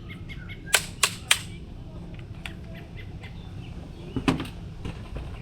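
Three sharp knocks in quick succession about a second in, and another knock near the end, over a low steady rumble.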